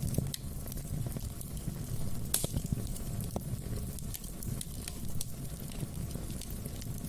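Wood fire burning in a fireplace: a steady low rumble of flames with scattered small crackles and pops, and one sharper pop about a third of the way in.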